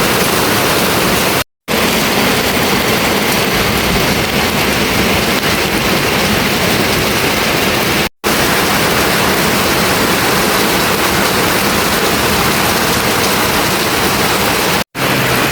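Heavy rain pouring down, a loud, steady hiss. It cuts out completely for a moment about a second and a half in, again after about eight seconds, and once more near the end.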